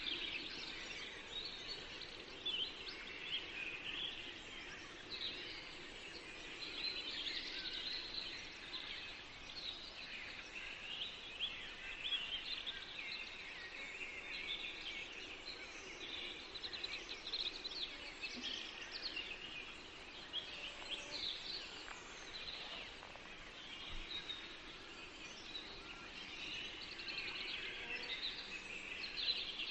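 Chorus of several songbirds singing and chirping continuously in a forest, many short overlapping trills and calls, over a soft steady background hiss.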